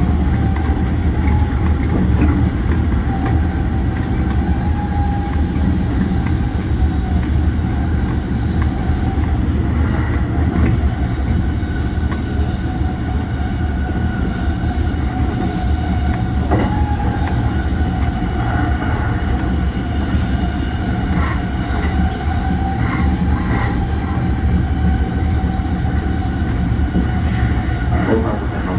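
JR East E235-1000 series electric train running at speed, heard from inside the car: a steady rumble of wheels on rail with a faint, slightly wavering whine and a few clicks over rail joints.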